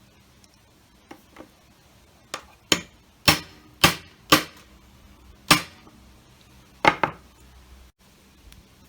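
Hammer blows on a punch driving out the broken stud from the end of a roller blind: two light taps, then about eight sharp strikes at uneven spacing.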